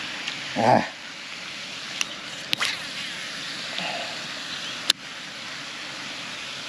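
Steady wind noise on the microphone, with a short grunt of "Ah" just after the start and three sharp clicks spread through the rest.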